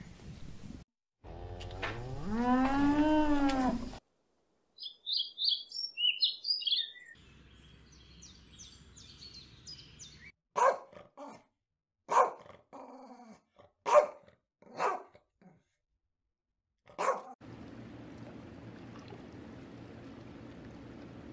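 A run of different animal calls: a drawn-out call that rises and falls in pitch, a quick series of high chirps, then about seven short, sharp bark-like calls spaced unevenly.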